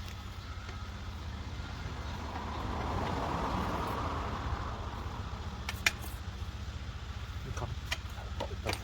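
Steady low motor-vehicle rumble, with a swell of vehicle noise that builds and fades a few seconds in, as of a vehicle passing. A few light clicks come near the end.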